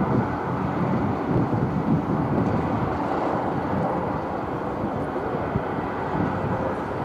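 Jet airliner engines running, a steady rumble with a faint thin whine.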